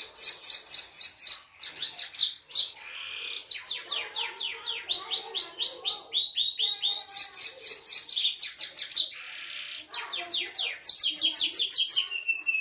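Belgian canary singing: a continuous song of fast trills, each phrase a run of quick repeated high notes, switching to a new trill every second or two.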